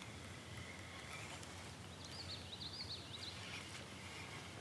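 Faint outdoor background with a small bird calling a quick run of short, high chirping notes about two seconds in, lasting under two seconds.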